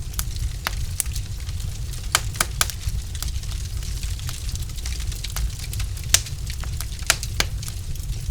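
Logs burning in a fireplace, crackling with irregular sharp pops and snaps over a steady low rumble. The loudest pop comes about six seconds in.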